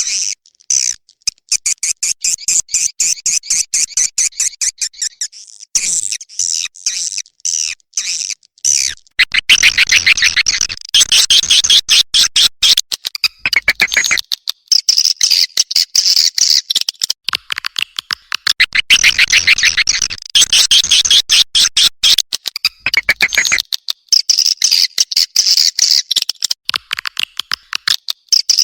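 Recorded edible-nest swiftlet calls: rapid trains of high, buzzy chirps and clicks, repeated in phrases with short gaps, louder and denser from about nine seconds in. It is a swiftlet call sound of the kind played in swiftlet houses to lure the birds in to roost and nest.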